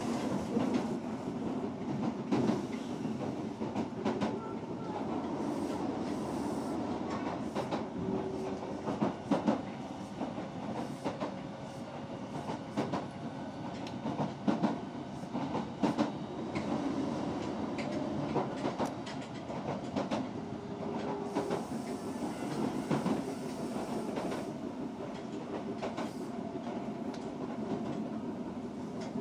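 Osaka Metro 66 series electric train running along the line: a steady rumble of wheels on rail, with frequent clicks as the wheels cross rail joints.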